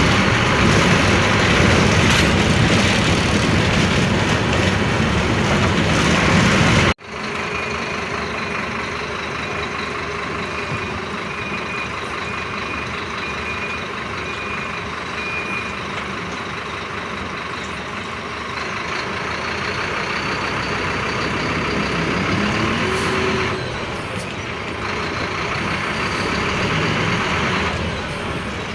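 Bus running, with loud engine and road noise that cuts off suddenly about seven seconds in. Quieter bus running follows, with a string of short, evenly spaced beeps and, near the end, the engine rising in pitch.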